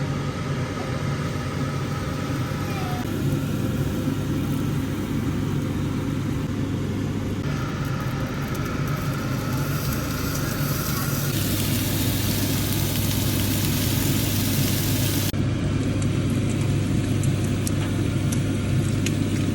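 Steady low hum under an even wash of noise, like road and engine noise of a moving vehicle. Its higher part shifts abruptly every few seconds.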